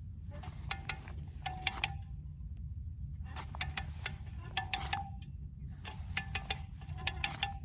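Ratchet of a hand winch (come-along) clicking as it is cranked to tension a pull line on a tree. The clicks come in three runs of several quick clicks each, with a short metallic ring, over a steady low rumble.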